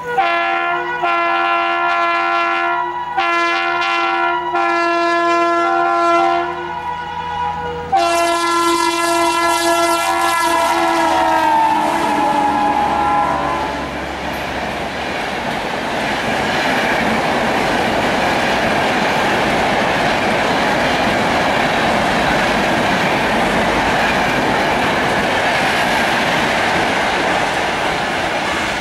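Indian Railways locomotive's multi-note horn sounding in a string of short blasts, then one long blast that drops in pitch as the train passes. After that comes the steady rumble and clickety-clack of the coaches going by.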